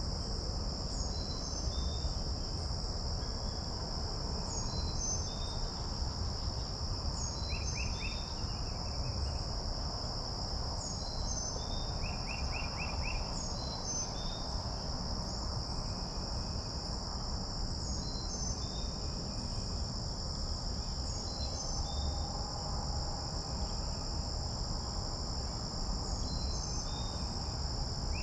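Steady high-pitched trill of insects such as crickets. Short, high, downward-gliding chirps repeat every second or two over it, and a brief rapid rattle comes twice.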